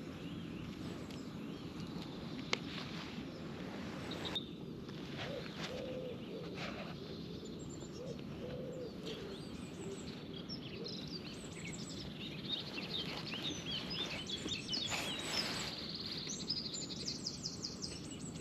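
Several woodland songbirds chirping and trilling, busiest in the second half, with a few lower calls in the middle, over a steady low rushing background.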